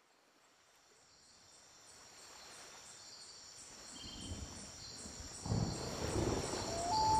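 Insects chirping in a steady pulsing chorus, about three pulses a second. A low rumble of the monsoon storm rises under it and grows louder about five seconds in.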